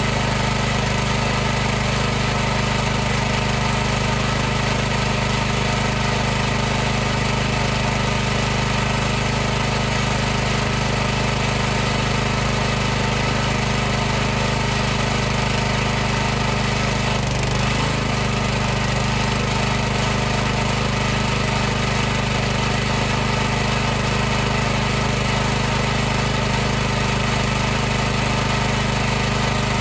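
High-pressure washer running continuously, its motor and pump giving a steady mechanical hum with hiss, and a brief wobble in pitch a little past halfway.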